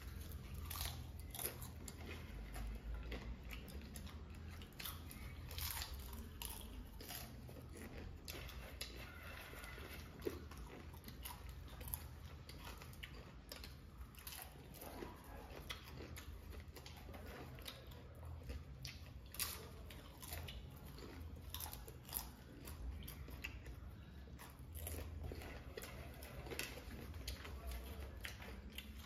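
Two people chewing and crunching popcorn by the mouthful, a continual run of irregular crisp crackles and clicks.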